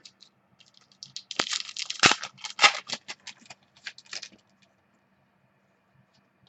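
Crinkling and crackling of a trading card pack's foil wrapper being torn open and handled: a dense run of sharp crackles for about three seconds, then quiet.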